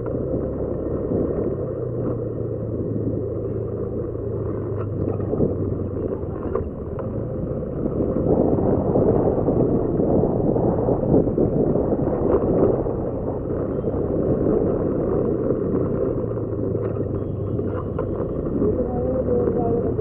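Motorcycle engine running at a steady pace under way, mixed with wind and road noise; it gets louder about eight seconds in.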